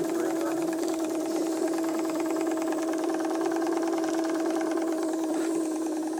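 Small steam mill engine running steadily at speed: a fast, even mechanical beat over a steady hum.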